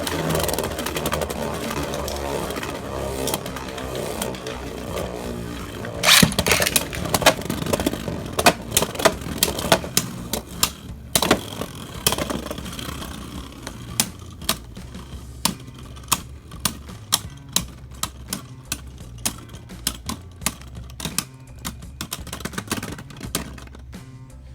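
Beyblade spinning tops, Storm Pegasus and Lightning L-Drago, spinning and clashing in a plastic stadium: a steady scraping whir for the first few seconds, then sharp clacks of hits, thinning to single clicks about once or twice a second near the end.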